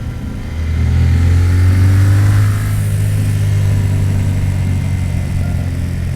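Yamaha MT-07's parallel-twin engine accelerating for about two seconds with its pitch rising, then easing off to a steady run.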